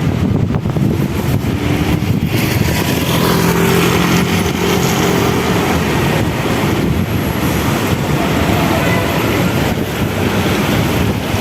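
City street traffic: cars running past in a steady wash of road noise, with a held engine tone standing out for a couple of seconds about three seconds in.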